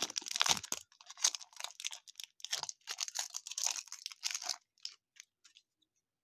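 Wrapper of a baseball card pack being torn open and crinkled in the hands: a dense run of irregular crackles that thins out to a few scattered ones about five seconds in.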